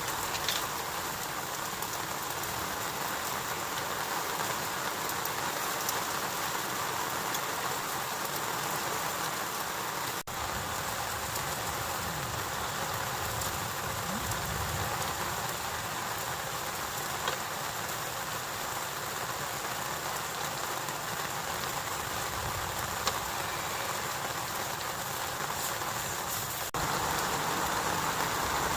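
Heavy rain falling steadily, with the sound shifting slightly louder near the end.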